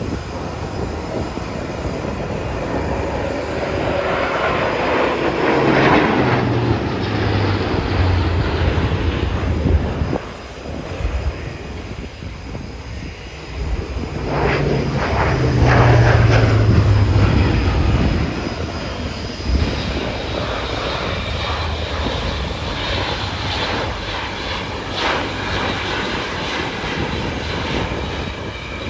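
Aircraft engines heard as a plane passes low overhead twice, each pass swelling loud and then dropping in pitch as it moves away, with steady engine noise in between.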